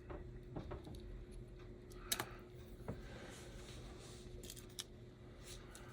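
Faint, scattered clicks and taps of small slot-car parts being handled and set down on a workbench, with a faint steady hum underneath.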